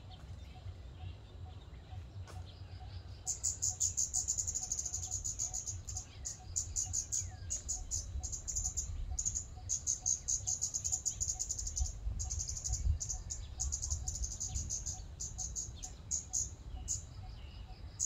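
Scarlet-backed flowerpecker calling: rapid series of sharp, very high-pitched ticking notes in runs of one to two seconds with short breaks, over a low background rumble.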